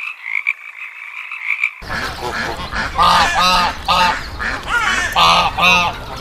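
A chorus of frogs croaking in a steady pulsing trill, cut off abruptly about two seconds in. Then a flock of geese honks, with several loud honks in quick pairs.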